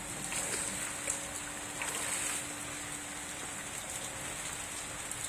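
Rain falling steadily on a swimming pool and its tiled patio, an even hiss, with a faint steady hum underneath.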